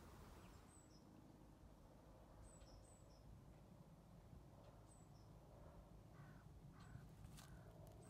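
Faint birdsong over a low wind rumble: scattered short, high chirps from small birds, then three harsh crow caws in quick succession near the end.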